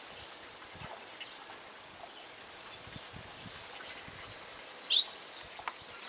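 Quiet outdoor ambience with scattered short, high bird chirps and whistles, one louder quick rising chirp about five seconds in.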